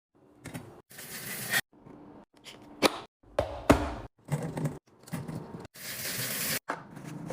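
Fridge restocking handling noise in short chopped-up snippets: sharp clicks and knocks of containers being set down and shifted, with stretches of crinkly rustling.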